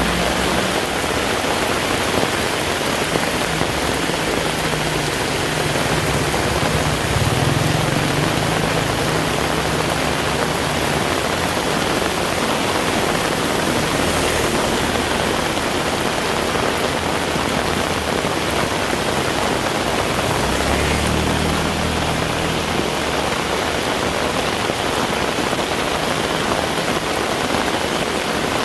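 Heavy rain falling steadily in a dense, even hiss. A low rumble swells underneath in the first third and again around three quarters of the way through.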